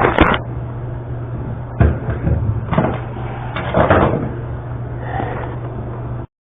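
A few separate knocks and thumps from things being handled and set down: a double knock right at the start, then single thumps about two, three and four seconds in. A steady low hum runs beneath them, and the sound cuts off abruptly just before the end.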